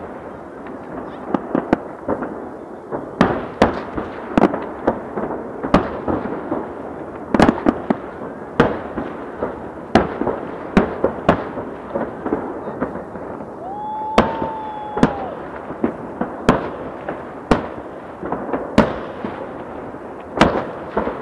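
Aerial fireworks shells bursting in a long irregular salvo of sharp bangs, about one or two a second, over a continuous background noise.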